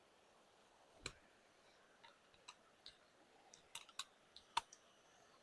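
Faint, scattered clicks and taps, about eight at uneven spacing over near silence, the sharpest about a second in and another near the end: small gear being handled.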